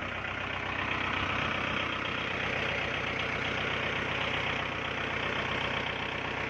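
Farm tractor's diesel engine running steadily at low revs.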